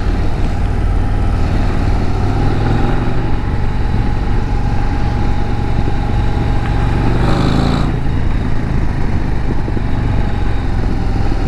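Harley-Davidson Road Glide CVO ST's V-twin engine running steadily on the move, heard from the rider's position. There is a brief swell of noise about seven seconds in.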